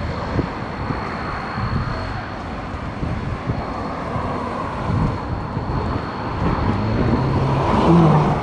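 Engine noise, a steady rumble that grows louder toward the end.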